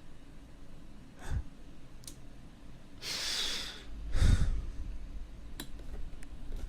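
A man breathing heavily into a close microphone: a long breath about three seconds in, then a loud low thump with a breath just after it, and a few faint clicks near the end.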